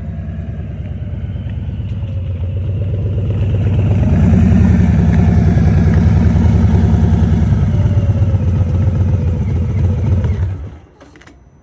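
Motorcycle engine running, growing louder over the first few seconds, then holding steady before cutting off abruptly near the end.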